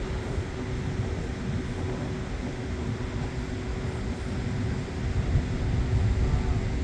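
Steady low engine rumble with a constant droning hum over it, no breaks or changes.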